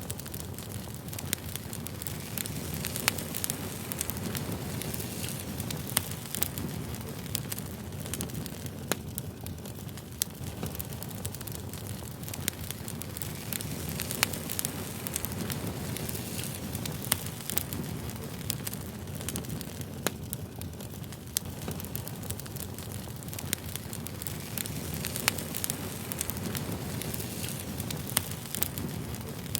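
Campfire burning, crackling with frequent sharp pops over a steady low rush.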